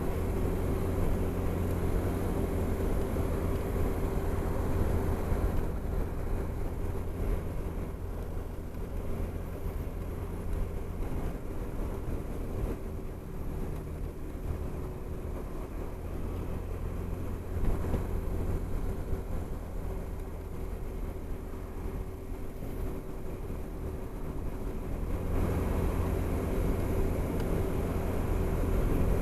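Honda SH300i scooter's single-cylinder engine running at a steady cruise, with the rush of riding over it, easing a little in the middle and picking up again near the end.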